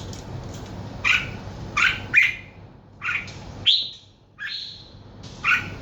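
A bird calling in short, repeated notes, about seven in a row, roughly one a second.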